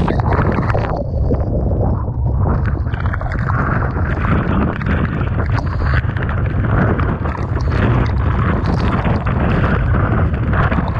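Typhoon wind buffeting the microphone in a heavy, unbroken low rumble, over the rush of storm-surge waves breaking.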